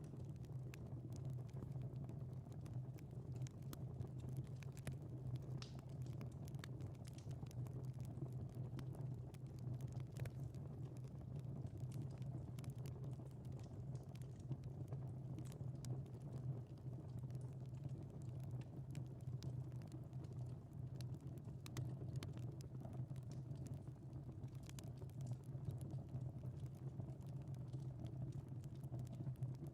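Wood fire in a fireplace crackling, with frequent small irregular pops and snaps over a steady low rumble.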